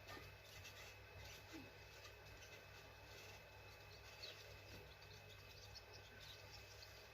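Near silence with a faint hum and a few faint small ticks and scrapes of metal, typical of fitting valve keepers onto a compressed valve spring on a cylinder head.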